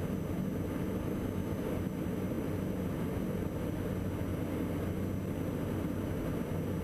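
Steady drone of a Diamond DA42 NG Twin Star's two Austro AE300 turbodiesel engines and propellers, heard inside the cockpit.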